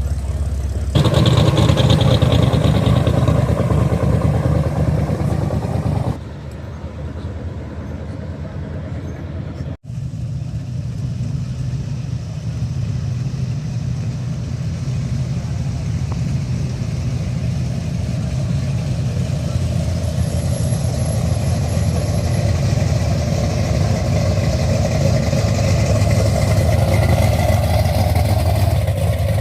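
Car engines running with a deep, steady rumble, in several short cuts. The sound swells a little near the end, as if the engine is revved.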